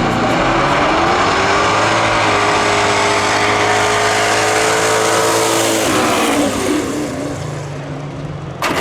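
Drag-race car engine at full throttle, its pitch climbing for the first two seconds or so and then held high, before it lifts off about six seconds in and falls away. A sharp crack near the end.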